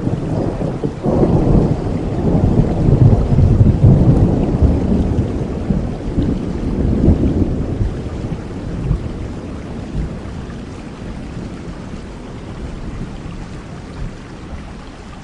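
A long roll of thunder: it builds about a second in, is loudest over the next several seconds and slowly rumbles away, over steady rain.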